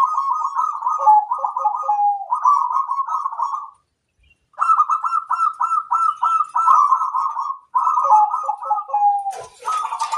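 Zebra dove (perkutut) cooing: rapid runs of coo notes, in two phrases with a short pause between. Each phrase ends on a lower drawn-out note and a few low notes. A brief rushing noise comes just before the end.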